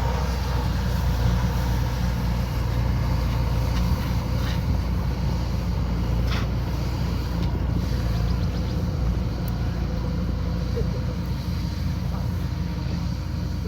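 Kubota combine harvester running steadily, its engine and machinery giving a constant low drone, with a couple of brief sharper sounds in the middle.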